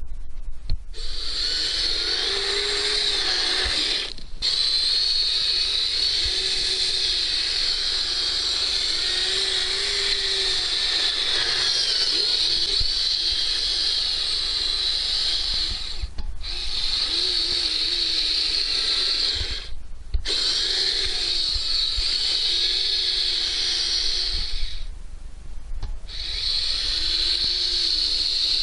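Kyosho Blizzard RC snowcat's small electric motor and gearbox whining steadily as it drives, cutting out briefly about four times and starting again.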